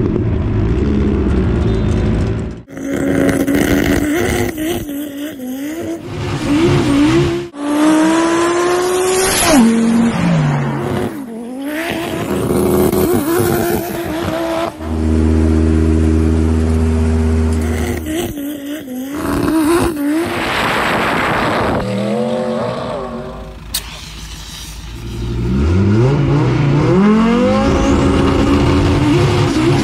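Drag-racing Audi's engine revving and accelerating, its pitch climbing in repeated sweeps and in places held at steady revs, in a string of short clips that cut abruptly from one to the next.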